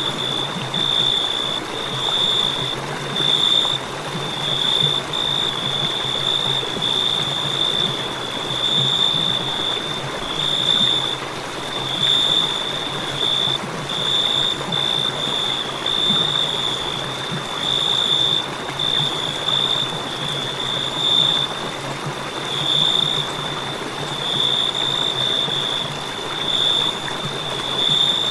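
Crickets chirping in a continuous high trill that swells and dips every second or so, over a steady rushing hiss.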